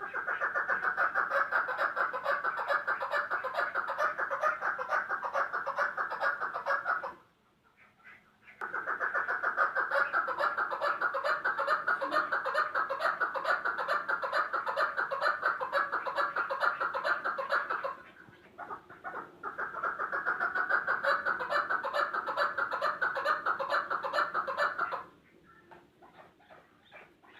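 Chukar partridge calling: a fast, unbroken run of repeated clucking notes in three long bouts, with short pauses about seven and eighteen seconds in and a quieter stretch near the end.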